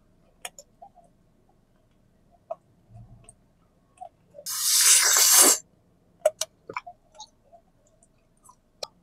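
Close-up chewing of a wax candy with a sweet filling: scattered small wet mouth clicks and smacks, with one louder rushing sound lasting about a second about halfway through.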